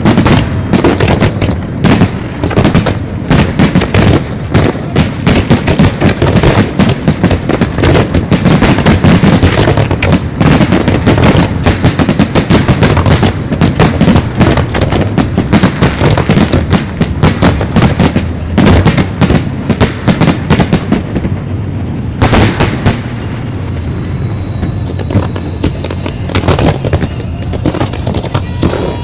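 Fireworks display: a dense, rapid barrage of bangs and crackle from bursting shells. It thins out in the last third to a quieter stretch broken by a few single bangs.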